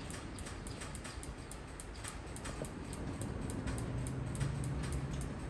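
Loaded tank cars of a freight train rolling slowly past in reverse, a low rumble of wheels on rail. A light ticking runs over it at about three a second, and a low hum comes in a little past halfway.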